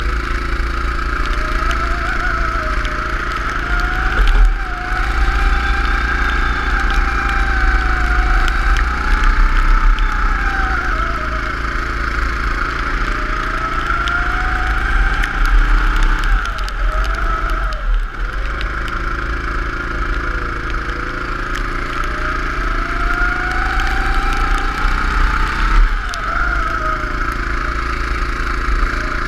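Go-kart engine running hard around a lap, its pitch climbing for several seconds on the straights and dropping sharply three times as it comes off the throttle for corners.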